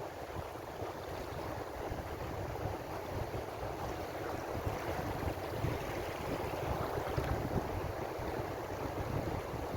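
Ocean waves washing onto a shore in a continuous, steady rush, swelling slightly in the middle.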